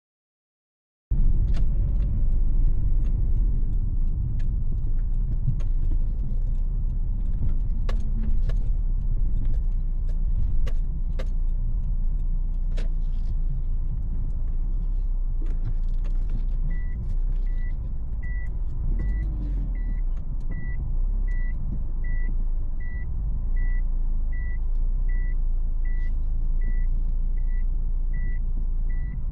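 Road noise and engine rumble inside a moving car, starting abruptly about a second in, with scattered clicks and knocks. From a little past halfway, a short high electronic beep repeats evenly, a little over once a second.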